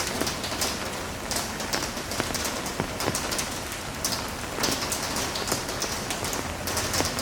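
Heavy rain falling steadily, with many sharp individual drop hits close by on a surface.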